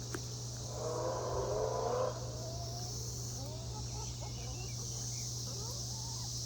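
Backyard chickens softly clucking and murmuring: a cluster of low wavering calls about a second in, then scattered short chirps, over a steady high-pitched hiss.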